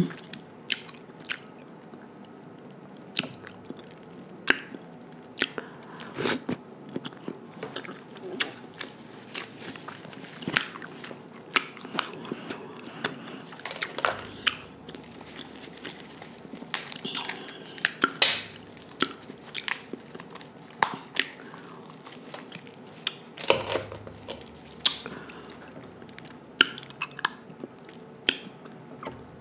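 Close-miked eating: chewing and biting on king crab meat dipped in butter sauce, with many sharp, irregular clicks throughout.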